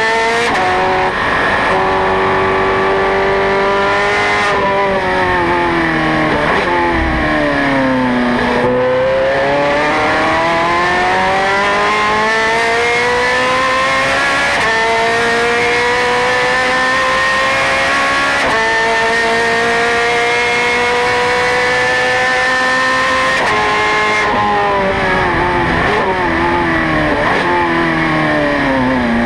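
Ferrari 430 Scuderia's V8 engine at racing speed. Its note falls as the car slows, then climbs in one long pull broken by two gear changes, and falls again near the end as the car slows once more.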